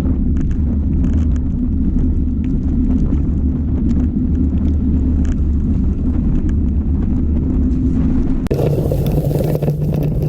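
Steady loud low rumble of wind and riding noise on the camera microphone while mountain biking. Its character changes abruptly near the end.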